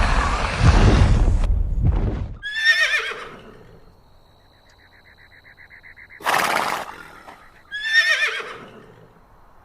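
Zebra calling: two high, wavering, whinny-like calls about five seconds apart, with a short noisy breath-like burst between them, after a loud rough rumbling sound in the first couple of seconds.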